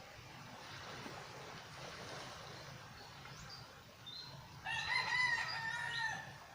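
A single long, drawn-out bird call lasting about a second and a half, starting past the middle, over steady background noise.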